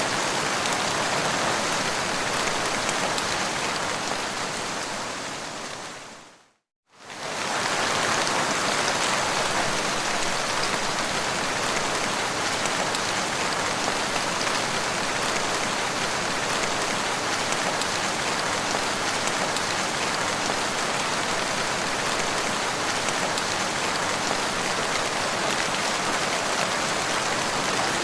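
Steady rain falling on the ground. About six seconds in it fades to silence for a moment and comes straight back, as at a loop point in the recording.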